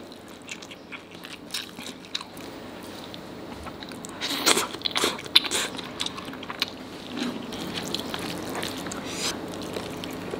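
Close-miked eating sounds of a nasi Padang meal eaten by hand: wet chewing and biting, with a run of loud, crisp crunches about four to five and a half seconds in and a few more near the end.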